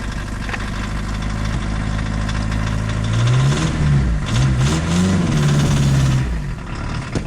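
VW Golf diesel engine idling soon after a cold start, then revved up twice, about three seconds in and again around five seconds, before dropping back to idle. A short click near the end.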